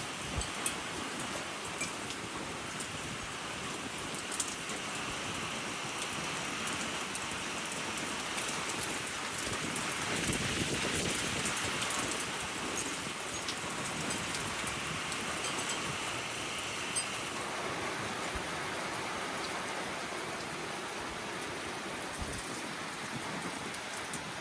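Heavy wind-driven rain pouring steadily during a severe thunderstorm, swelling louder about halfway through, with scattered drops ticking close by.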